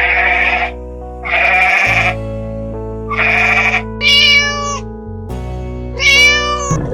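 Five short bleats over background music: three hoarse ones about a second and a half apart, then two clearer ones with a wavering pitch.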